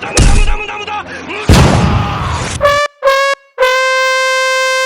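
Two loud booms, the second about a second and a half in and trailing off in a rush of noise, then a bus telolet horn plays its three-note call: two short notes and a long held one, each a little lower in pitch than the last.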